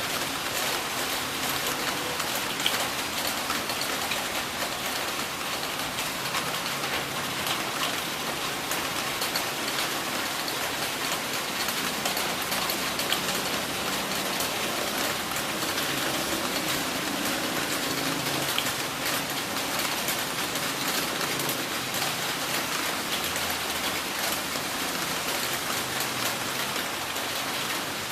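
Heavy rain falling steadily, a dense even patter of drops with no thunder.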